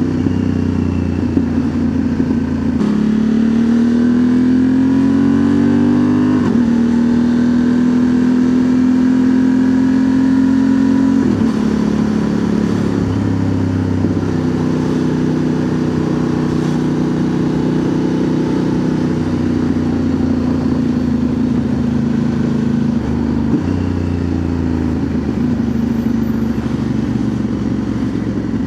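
2025 Honda Transalp's 755 cc parallel-twin engine through a Dominator MX2 slip-on exhaust, accelerating up through the gears while riding. The pitch climbs and then drops at each upshift, about three seconds in and again near six and eleven seconds, then settles into a steadier cruise with small throttle changes.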